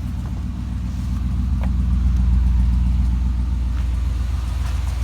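Engine of a 1978 Chevy Malibu idling steadily, a low even rumble that swells slightly in the middle.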